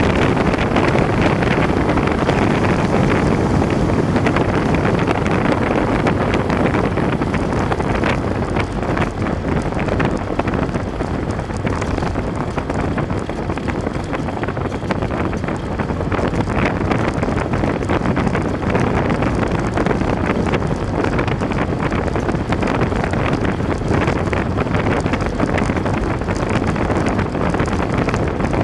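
Loud, steady wind noise buffeting the microphone, drowning out everything else.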